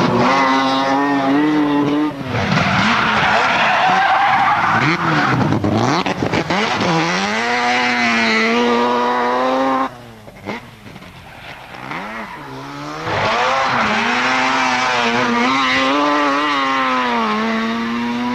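Mazda RX-7 Group B rally car's two-rotor rotary engine at hard throttle, its revs rising and falling repeatedly as it shifts gears. About ten seconds in the engine drops away for about three seconds, then comes back on full throttle.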